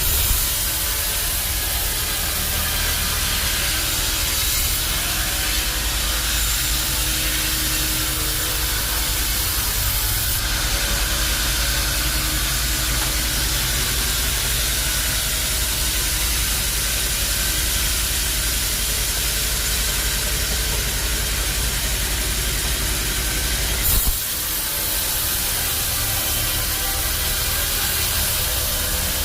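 Band sawmill machinery running steadily, a low hum under a constant hiss. A brief knock comes about 24 seconds in, with a short dip in the hum.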